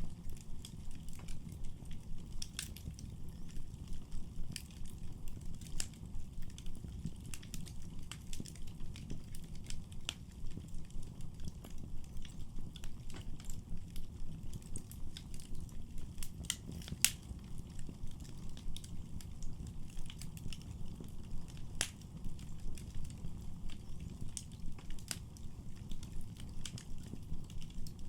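Wood fire crackling and popping in a fireplace: frequent irregular sharp snaps over a steady low rumble of burning, with one louder pop about 17 seconds in.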